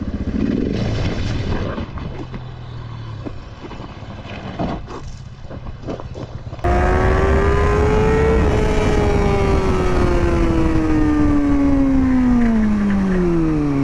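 Motorcycle engine and road noise, with a few sharp knocks about five seconds in. Then, after a cut, a motorcycle engine with a clear, strong note that rises briefly and then falls steadily for several seconds as the engine slows.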